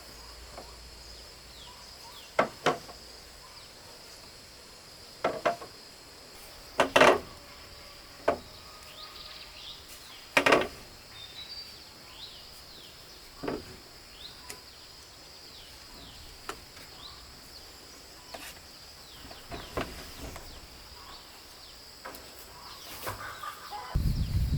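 Sharp knocks on wood or bamboo every few seconds, several in quick pairs, over a steady high insect drone and small bird chirps. A loud low rumble starts near the end.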